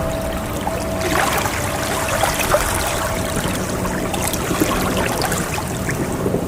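Water sloshing and trickling in a steady wash flecked with small splashes. A held ringing tone fades out partway through.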